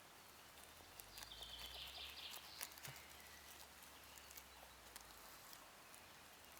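Near-quiet woodland ambience: a faint low rumble throughout, a brief high chirping call about a second in, and a few small clicks.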